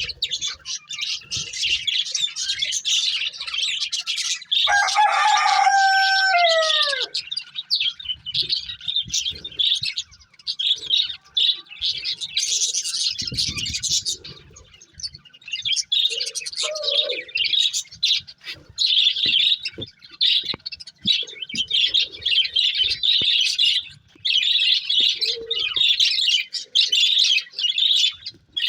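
Pet budgerigars chirping and warbling in quick, dense bursts. About five seconds in, a louder, lower call sounds for a couple of seconds and falls away at its end.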